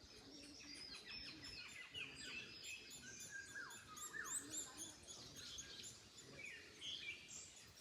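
Several wild birds chirping and singing at once, short quick notes and sweeping whistles overlapping throughout, over a faint low rush of wind.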